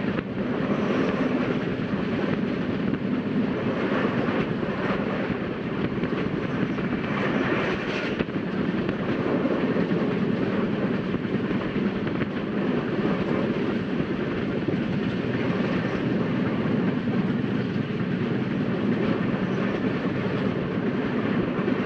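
Rajdhani Express passenger train running at speed: a steady low rumble of wheels and carriage, with a few faint clicks in the first eight seconds.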